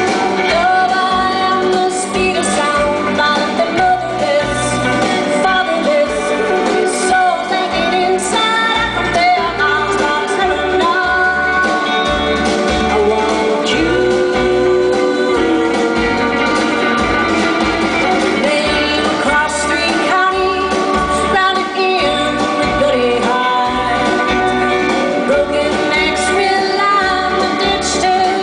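Live rock band playing a song, with a woman singing lead over guitars and drums.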